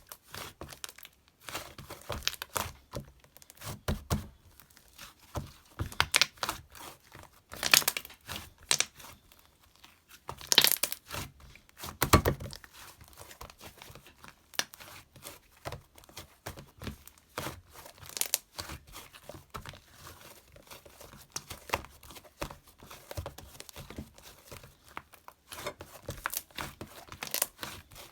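Irregular close-up crinkling and rustling handling noises, with sharp clicks and taps at uneven intervals and a few louder crackles in the middle.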